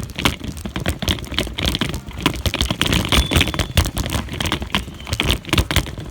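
Dense, irregular crackling and rattling with many sharp clicks, like rustling and knocking right against the microphone.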